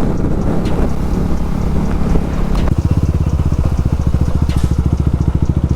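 Motorcycle engine running with wind rush on the microphone. About two and a half seconds in, the wind drops away and the engine settles to an even, fast, low pulsing, as at idle or a slow roll.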